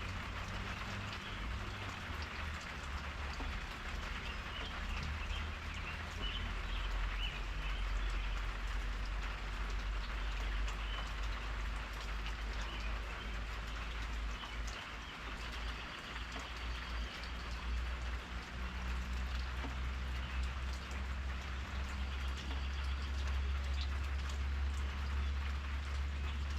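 Steady rain falling and pattering, over a continuous low rumble.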